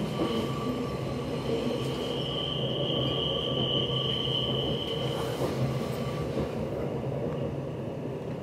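Swiss passenger train running, heard from inside the carriage: a steady rumble of wheels on the rails, with a high, steady wheel squeal that swells about two seconds in and fades out after about five seconds.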